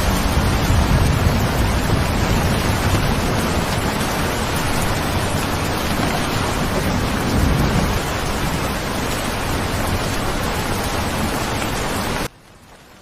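Steady heavy rain with a low rumble underneath. Near the end it cuts off abruptly to a much fainter hiss.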